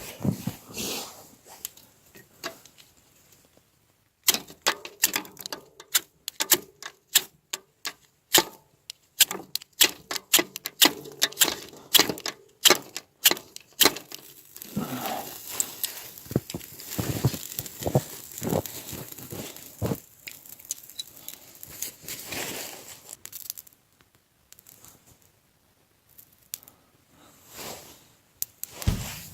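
Dry twigs and tinder snapping and crackling as they are broken and handled by hand, in quick irregular runs of sharp snaps with a couple of short pauses.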